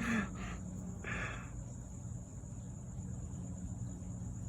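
Honey bees buzzing at the hive entrance: a steady low hum, with two short soft hissing noises near the start.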